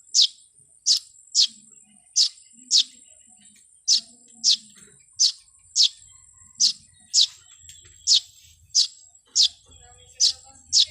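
A bird chirping over and over, short sharp calls that each sweep quickly down in pitch, repeated steadily about one and a half times a second.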